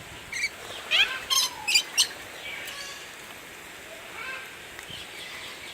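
Birds calling: a quick run of about five shrill, sharp chirps in the first two seconds, then a few fainter chirps.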